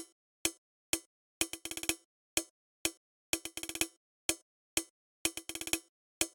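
A short, dry electronic percussion hit with a pitched knock, looping in a sequenced pattern: two single hits, then a quick roll of rapid repeats, coming round about every two seconds with dead silence between hits.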